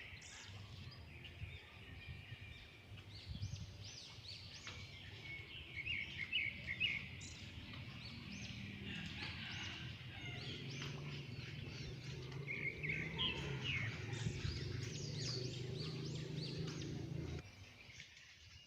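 Many small birds chirping in quick high twittering calls, over a steady low rumble that cuts off near the end.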